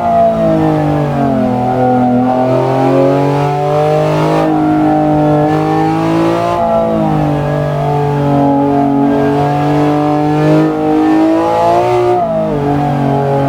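BMW E46's S54B32 3.2-litre naturally aspirated inline-six running, its note holding fairly steady for several seconds at a time and shifting in pitch about a second in, around seven seconds and again near the end.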